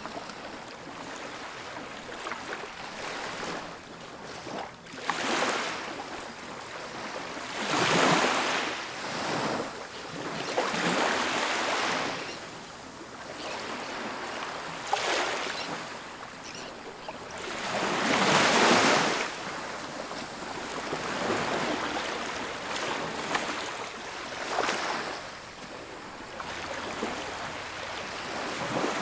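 Ocean waves breaking on a beach, each surge of surf hissing up and falling away every few seconds, with the strongest breakers about eight and eighteen seconds in.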